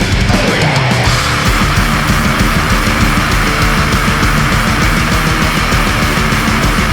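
Live blackened thrash metal played at full volume: distorted guitars over fast, relentless drumming, with a falling slide in pitch in the first second.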